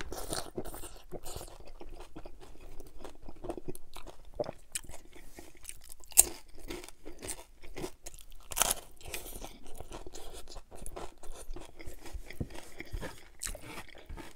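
A person biting and chewing a crisp hard-shell corn taco loaded with fried chicken skins: a sharp bite crunch at the start, then repeated crunching and chewing, with louder crunches about six and nine seconds in.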